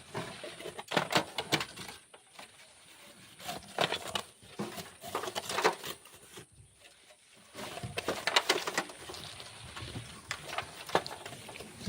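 Black sand being shovelled, with gritty scrapes and tosses coming in about five bursts a couple of seconds apart.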